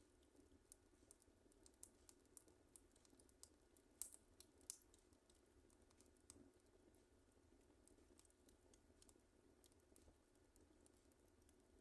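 Wood fire crackling faintly, with irregular small pops and snaps; the loudest cluster of pops comes about four seconds in.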